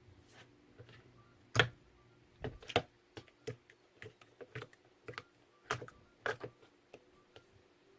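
Slime being squished and pressed by hand, making irregular sharp clicks and pops, the loudest about one and a half seconds in.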